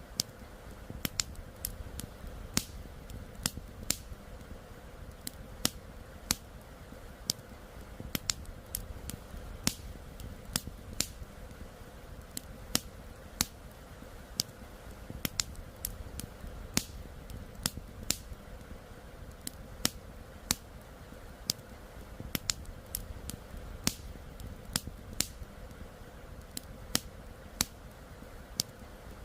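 Campfire crackling: irregular sharp pops and snaps from burning wood, a few a second, over a steady low rush of flowing river water.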